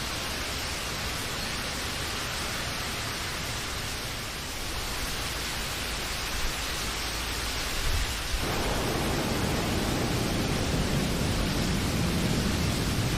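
Steady rain hiss. About two-thirds of the way through, a deeper, louder layer of sound comes in suddenly and carries on.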